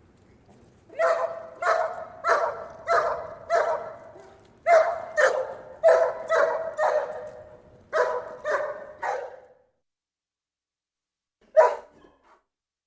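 A dog barking in two runs of evenly spaced, same-pitched barks, about one and a half barks a second. After a few seconds of silence, one more bark comes near the end.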